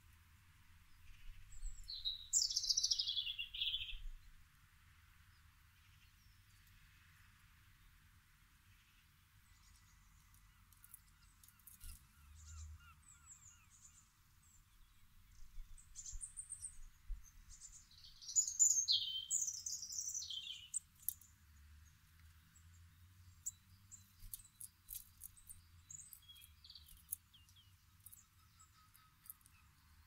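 Wild birds calling: two loud phrases that sweep down in pitch, each about two seconds long, one a couple of seconds in and one about two-thirds of the way through, with faint scattered chirps and ticks in between.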